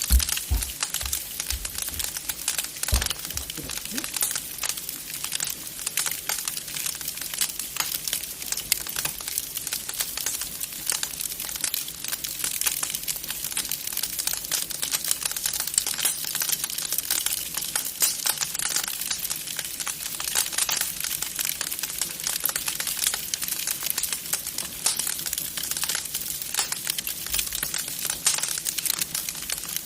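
Wood fire crackling in a fireplace: a dense, steady run of small snaps and pops, with a few low thuds near the start.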